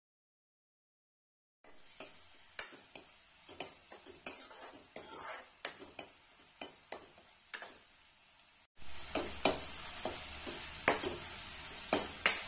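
Grated onion sizzling in hot oil in a metal kadhai while a spatula stirs and scrapes it, with sharp clicks of the spatula against the pan a few times a second; the onion is being fried until golden brown. Silent for the first second and a half, and louder from about nine seconds in.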